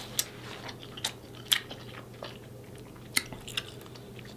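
Close-up chewing and mouth sounds of someone eating sauce-coated king crab meat, with a few sharp smacks spaced through the chewing.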